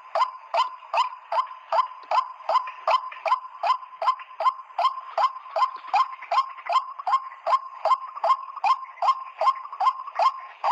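Rapid, evenly spaced 'ruak' calls of the white-breasted waterhen kind, nearly three a second without a break.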